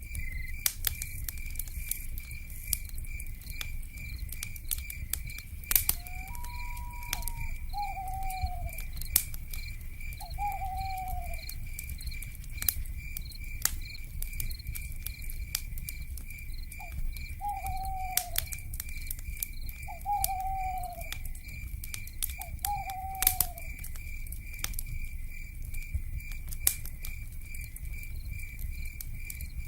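Wood fire crackling with scattered sharp pops over a low rumble, while a night insect chirps steadily about twice a second. An owl gives short, falling, whistled calls about six times.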